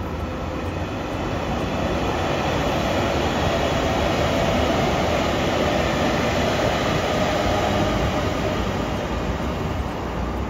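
A train running past: its rumble and rail noise build up, peak in the middle and ease off again.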